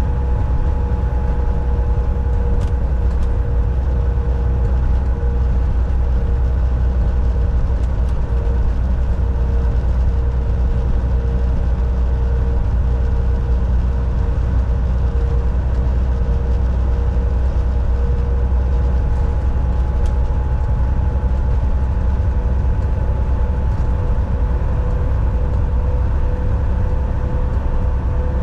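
Volvo VNL 760 semi truck cruising on the highway, heard from inside the cab: a steady low engine and road rumble with a constant whine held under it, and a few faint ticks.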